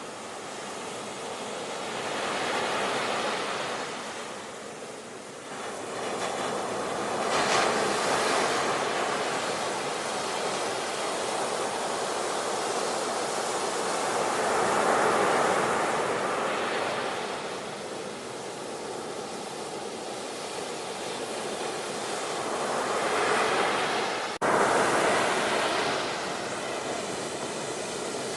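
Ocean surf: waves breaking and washing back in slow swells, a surge every five to eight seconds. Near the end the sound cuts out for an instant and comes back louder.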